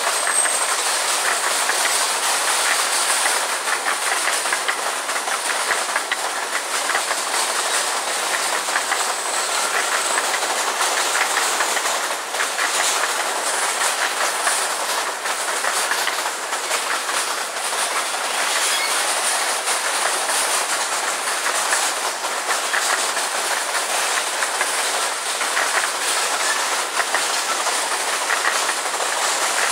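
Empty grain hopper cars of a freight train rolling past at close range: a steady rattle of steel wheels on the rails, with clickety-clack at the rail joints.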